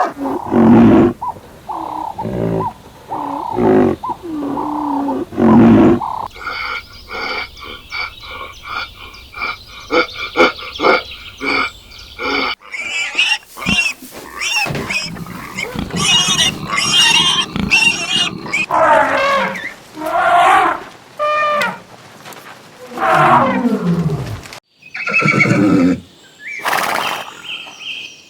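Animal calls from several different animals, cut one after another into segments a few seconds long. Deep calls come first, then a stretch of higher, repeated cries.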